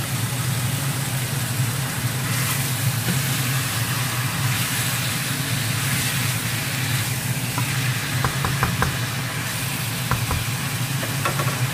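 Chicken pieces sizzling in a hot nonstick wok as they are stirred with a wooden spatula, over a steady low hum. Light clicks of the spatula against the pan come in two short runs in the second half.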